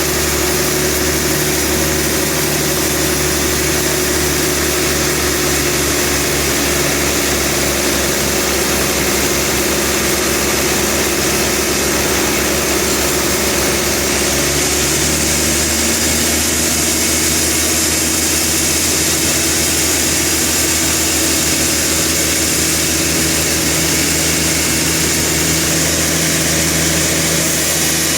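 A sawmill's engine running steadily, its note shifting slightly about halfway through.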